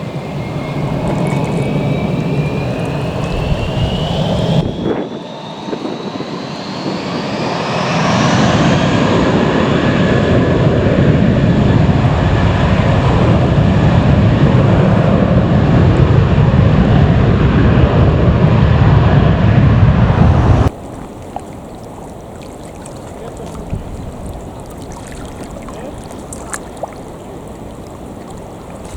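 The jet engines of an Airbus A320-232 running at takeoff thrust, a loud steady rush with a high whine that rises in pitch over the first several seconds. The sound cuts off abruptly about 21 seconds in, leaving quieter wind and lapping water.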